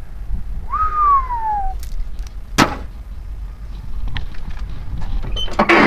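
Truck door handling: one short squeak that slides down in pitch, a sharp click, then a cluster of clicks near the end, over a steady low rumble.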